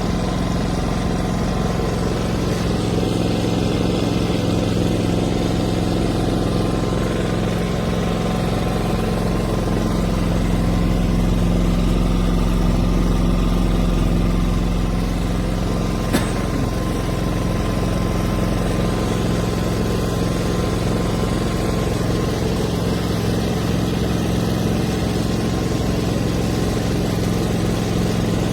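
Four-stroke petrol inverter generator engine running steadily, with a single brief click about halfway through.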